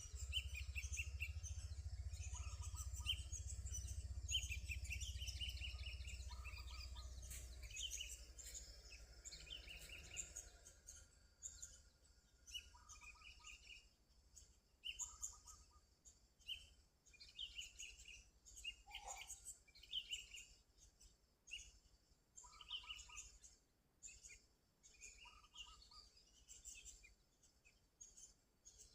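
Sooty-headed bulbul singing: short bubbly phrases repeated every second or two. A low rumble underlies the first third and fades away.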